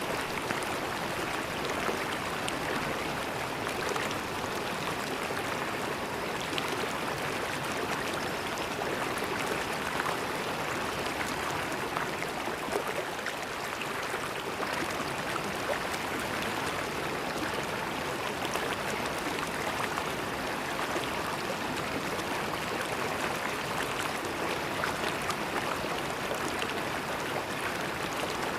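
River water flowing and gurgling steadily, an even rushing with fine splashing and no pauses.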